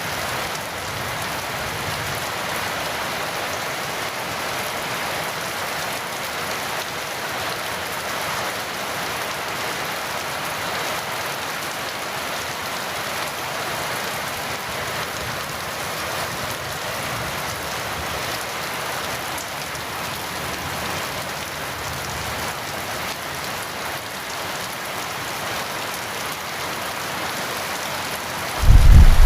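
Heavy rain falling steadily, an even hiss of rain on surfaces. In the last second a loud, low clap of thunder breaks in.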